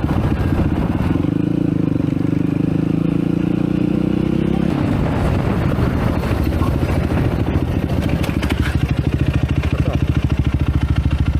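Motorcycle engine running under way. For the first few seconds there is a steady drone that eases slightly in pitch, then a rough, even pulsing of the engine's firing beat.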